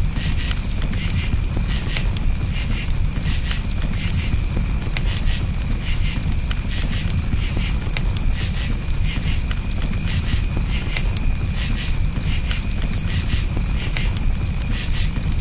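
Crickets chirping in a steady, repeating rhythm over a campfire's low rumble, with scattered crackles from the burning wood.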